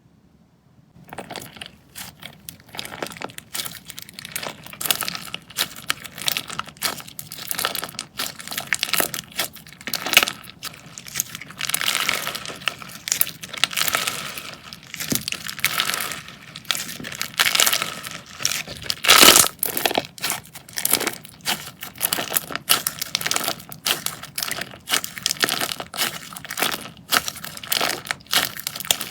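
Slime being squeezed and worked by hand, making a dense stream of crackling, popping and crunching sounds that starts about a second in, with one louder crack a little past the middle.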